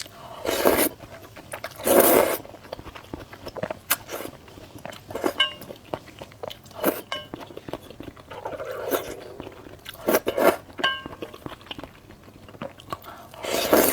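Close-miked eating sounds from a person eating malatang (spicy hot pot): bites and chewing with crunching, with about five louder noisy mouthfuls spaced a few seconds apart and small clicks between them.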